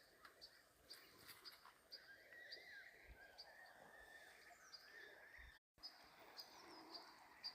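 Faint outdoor birdsong: a short high chirp repeated about twice a second, with a wavering warble in the middle, over a light background hiss. The sound cuts out for a split second near the end.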